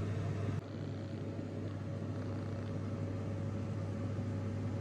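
Steady low hum with a faint even background noise, stepping down slightly in level about half a second in.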